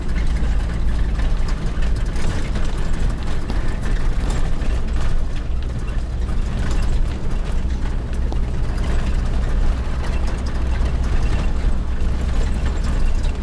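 Vehicle running with a steady, loud low rumble and a haze of road or wind noise over it.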